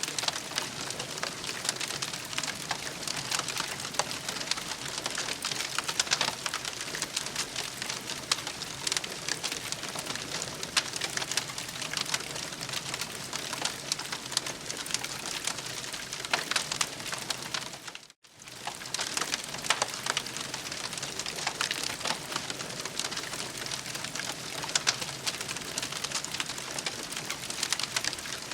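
Campfire crackling steadily: dense small pops and snaps over a soft hiss. The sound drops out for a split second about eighteen seconds in.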